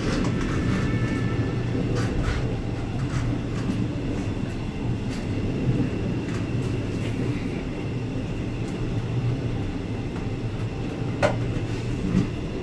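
Passenger train running along the track, heard from inside: a steady low rumble of wheels on rail with a few sharp clicks and knocks, the loudest near the end.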